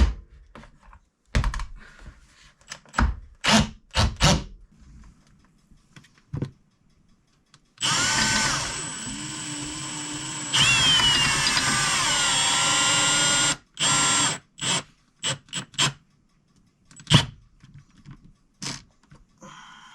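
A cordless drill/driver runs for about six seconds, a little past the middle, with its pitch stepping up and then sagging as it drives a fastener home into the door hardware. Sharp knocks and taps of wood and metal parts come before and after it.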